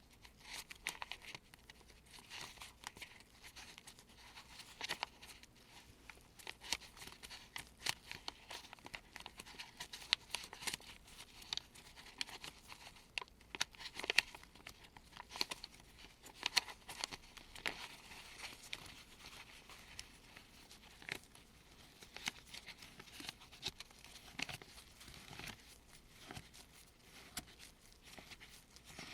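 Gloved fingers sifting through a stack of US $1 paper bills: soft, continuous paper rustling and crinkling, with frequent small irregular crackles.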